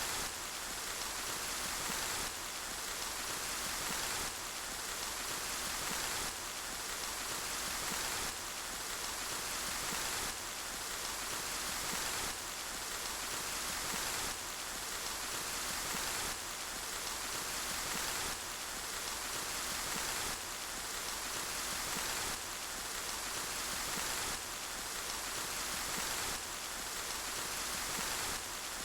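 Steady rain falling, an even hiss of drops. The loudness swells slightly and drops back about every two seconds, a short recording repeated in a loop.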